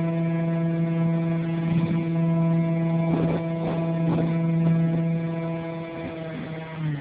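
RC model airplane's motor and propeller running at a steady throttle, one held pitch that drops away near the end as the throttle is pulled back.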